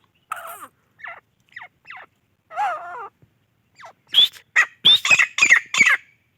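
Grey francolin (gora teetar) calling excitedly. Soft scattered calls at first, then from about four seconds in a fast, loud run of repeated calls, about three a second, each note dropping in pitch.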